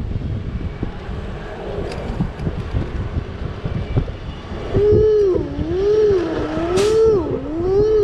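Street traffic and wind rumbling past while cycling, then from about five seconds in a strong pitched tone that slides smoothly up and down over and over, with a brief hiss near the end.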